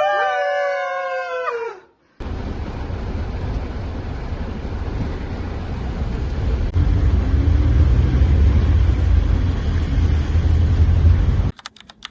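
A rooster crows once, a single drawn-out call that rises, holds and falls away. After a short break comes a steady, noisy low rumble that grows louder and then cuts off suddenly near the end.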